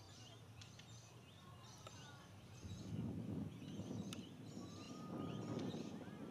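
Small birds chirping repeatedly in short, quick calls, with a low rumble that swells about halfway through and again near the end.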